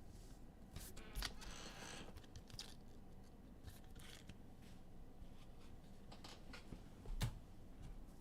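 Trading cards being handled and sorted: soft clicks and slides of cards, a short rustle about a second in, and a sharper knock near the end.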